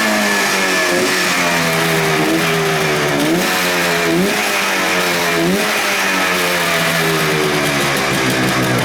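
Suzuki GT500 (T500) air-cooled two-stroke parallel-twin engine running and revved with several sharp throttle blips, each quick rise in pitch falling back toward idle. It revs up freely, the sign of an engine in good running order.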